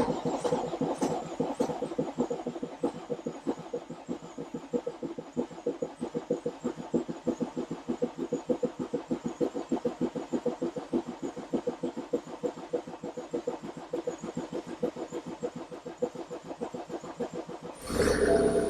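BMW 520d's four-cylinder diesel engine cranking on the starter with an even, rhythmic churn for a long time, then catching and running near the end with a high whine. This is its first start after the fuel system was bled.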